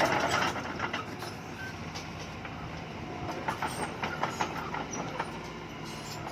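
Heavy diesel engine of a bulldozer running steadily under clanking and rattling of its steel tracks and blade, with bursts of clanks at the start and again around the middle.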